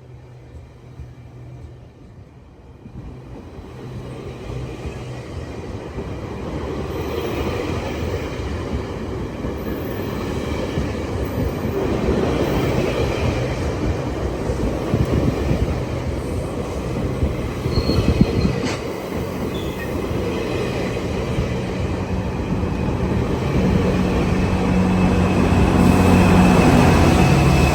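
A train rolling past on the rails, its rumble and wheel noise growing steadily louder, loudest near the end.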